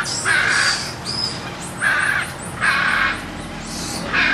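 An animal giving a series of loud, short, harsh calls, about one a second, five in all.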